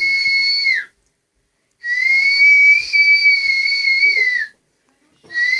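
High steady whistled notes, each held for a while and dipping in pitch as it breaks off. One note ends just under a second in, a long one runs from about two to four and a half seconds in, and another starts near the end.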